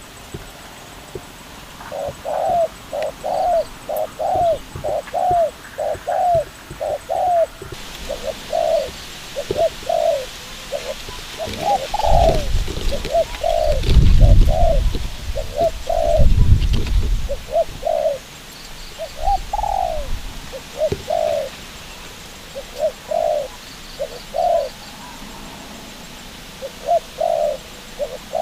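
A dove cooing in long runs of short, arching notes, about two a second, with pauses between runs. A low rumble comes in around the middle for a few seconds.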